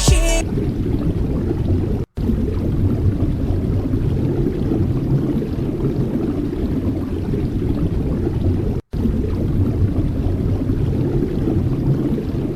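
Winter wind buffeting the microphone: a steady low, rough rumble, broken twice by a brief cut to silence.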